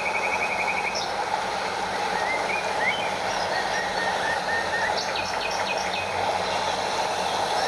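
Stream and small waterfall flowing with a steady rush of water, with birds chirping over it: a few short upward chirps and a quick run of repeated notes.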